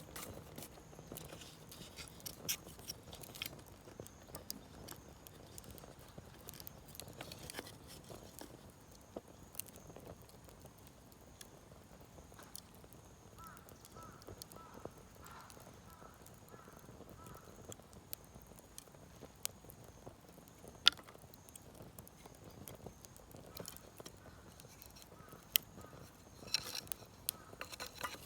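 Small wood fire crackling in a kamado shichirin clay stove: irregular soft crackles and ticks throughout, with two louder sharp pops in the later part.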